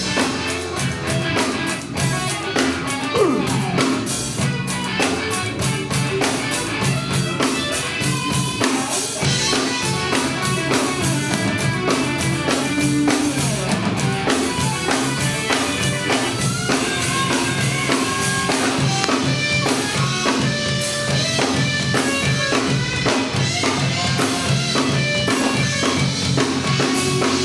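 Instrumental break of a rock song: drum kit and guitar playing a steady, driving beat.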